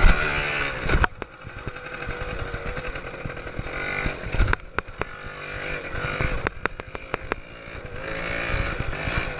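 Motorcycle engine running, its pitch rising and falling as it revs up and down. There is a sharp knock about a second in, another about four and a half seconds in, and a quick run of clicks a little later.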